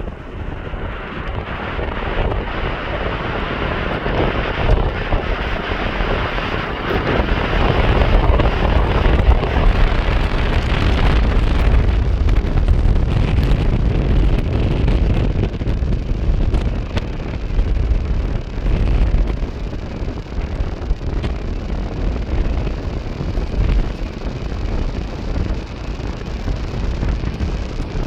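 Jet airliner engines swelling over the first ten seconds or so and then fading as the aircraft passes, under heavy wind rumble on the microphone.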